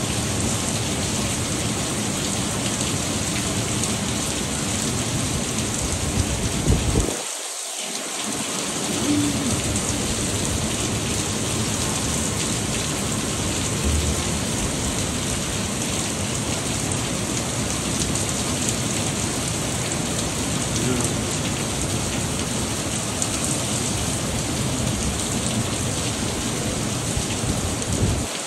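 Heavy tropical-storm rain pouring steadily, an even hiss that is briefly interrupted about seven seconds in.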